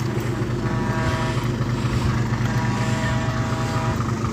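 Truck engine idling steadily, with a higher droning note coming in twice.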